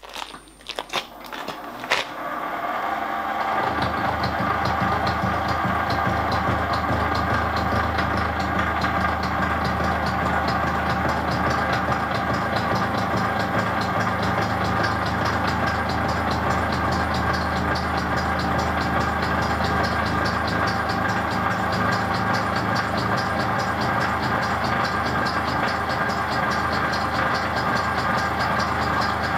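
Milling machine started with a few clicks, then its motor and gear cutter running steadily while cutting a tooth of a spur gear.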